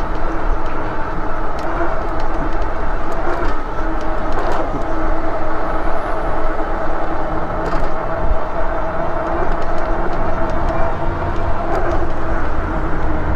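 Riding noise of a Lectric e-bike in motion: a steady hum over a continuous low rumble, with a few faint clicks.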